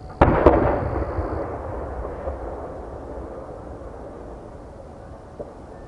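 Two loud booms from large 10-go (shakudama, about 30 cm) aerial firework shells, a quarter second apart, followed by a long rolling echo that slowly fades. A small pop sounds near the end.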